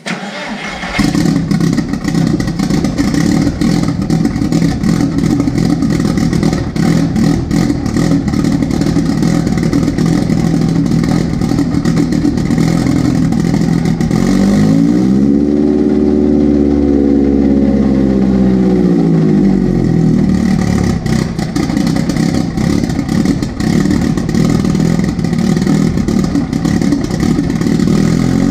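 Turbocharged 1.8-litre four-cylinder engine of a big-turbo Mk4 VW Jetta starting cold and running at idle. About halfway through the engine speed rises and falls slowly, and it begins to rise again at the very end: an idle that has not yet settled on a cold engine.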